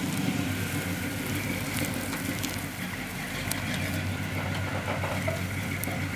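Off-road 4x4's engine running steadily at low revs, with a few faint clicks and crackles over it.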